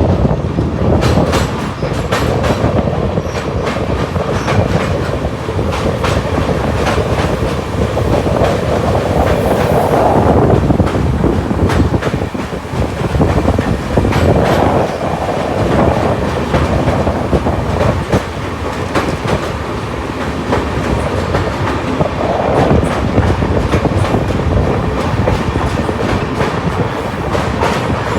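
A train's wheels running over the rails while it crosses a river bridge: a continuous loud clatter with many sharp clickety-clack strikes from the rail joints.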